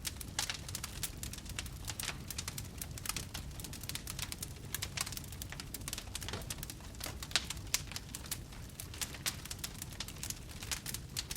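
Fire crackling: a steady stream of irregular sharp pops and snaps, a few louder than the rest, over a low rumble of burning.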